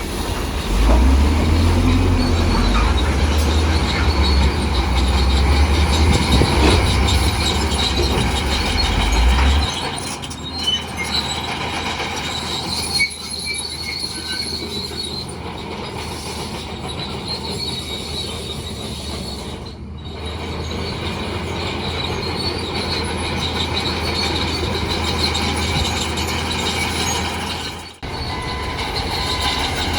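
Bulldozer at work: its diesel engine running with a high-pitched metallic squeal from the steel crawler tracks. A deep engine rumble dominates for the first third, then drops away, and the sound breaks off abruptly a few times.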